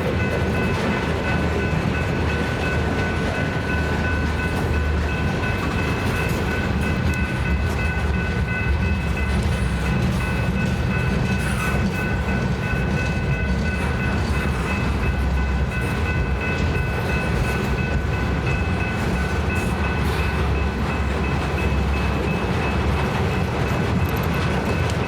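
A BNSF train rolling past with a steady low rumble and the clickety-clack of railcars, plus a steady high-pitched whine.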